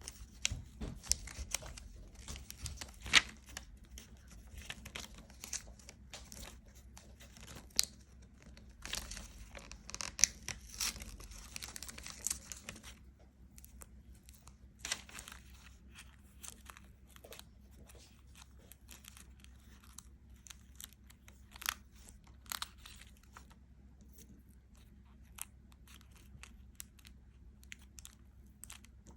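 Close crinkling and tearing noises of something being handled. There is a dense crackle for about the first thirteen seconds, then scattered sharp clicks and crackles.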